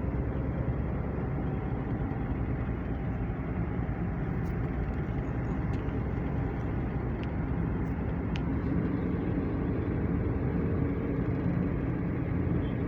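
Steady engine and road noise of a vehicle driving along a road, with no change in pace.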